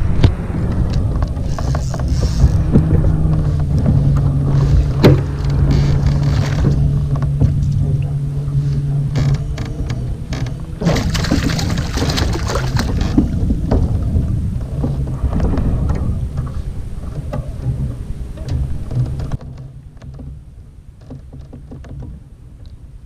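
Handling noise on a fishing kayak: water and short knocks against the hull, under a steady low hum for the first nine seconds or so. A louder rush comes around eleven to thirteen seconds in, and the sound drops much quieter about nineteen seconds in.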